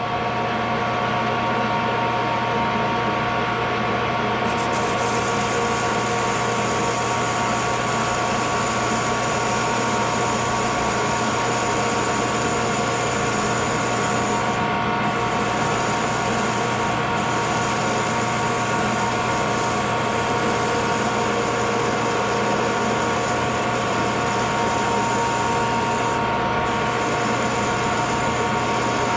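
Metal lathe running steadily, its motor hum and gear whine held at a constant pitch, while a small turned part is parted off with a parting tool.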